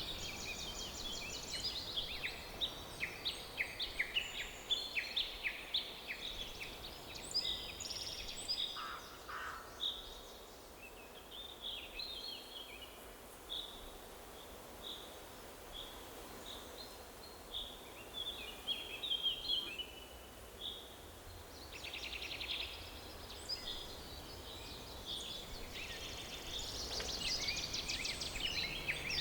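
Forest birdsong: several birds chirping and trilling in short high calls over a faint steady background hiss. The calls are busy at first, thin out for a while in the middle, and grow dense again near the end.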